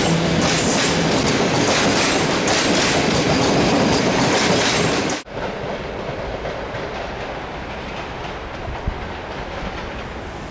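Passenger train coaches rolling past close by on steel rails, a loud steady rush of wheel and rail noise. About five seconds in it cuts abruptly to a quieter, duller rolling as the train moves away, with one short sharp knock a little before the end.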